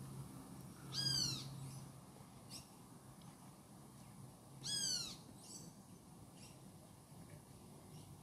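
A bird calling twice, about four seconds apart, each call a short high note that slides downward in pitch.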